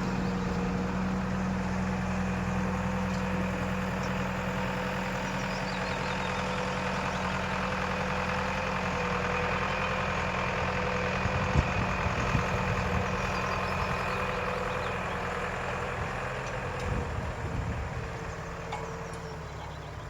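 Engine idling steadily, with a few sharp knocks about halfway through and again near the end, as the engine sound fades over the last few seconds.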